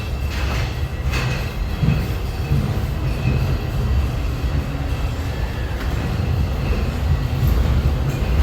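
Walt Disney World Railroad narrow-gauge steam train rolling along the track, heard from aboard: a steady low rumble with a couple of sharper wheel clacks in the first second or so.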